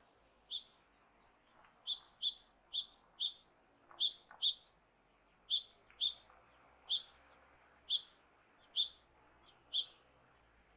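A bird calling with short, high chip notes, about thirteen of them, repeated irregularly at roughly one or two a second.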